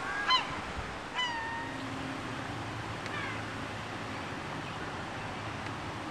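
Bird calls: a few loud, short cries with downward-sliding pitch in the first second or so, one of them drawn out, then a fainter cry about three seconds in.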